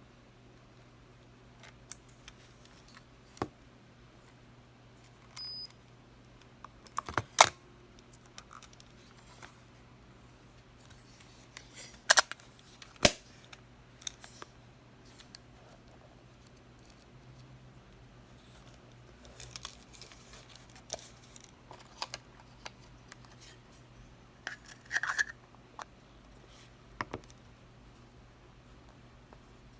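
Minolta X-7 35 mm SLR film camera being handled and worked by hand: scattered sharp mechanical clicks, the loudest about seven seconds in, then a sharp pair around twelve and thirteen seconds, and smaller clicks later.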